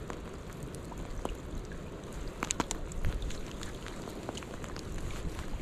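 Rain falling: a steady wash of noise with scattered sharp ticks of drops hitting close by.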